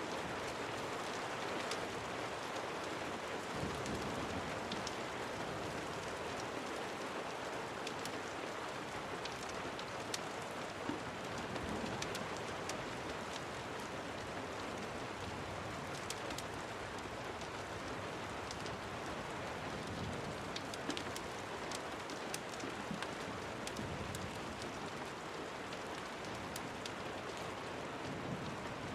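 Steady rain falling, an even continuous hiss, with scattered sharp ticks throughout.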